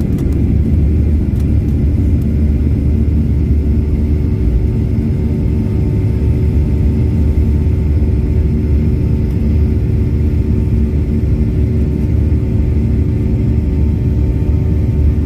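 Airplane taking off: its engines at takeoff power, giving a loud, steady, deep rumble with several steady engine tones running over it.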